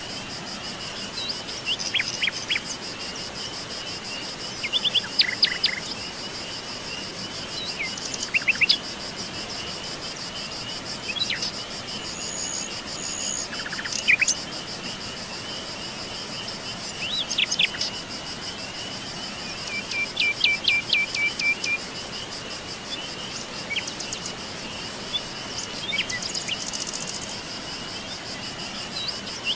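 Songbirds chirping and calling in short, scattered phrases, with a quick trill of repeated notes partway through, over a steady high insect trill.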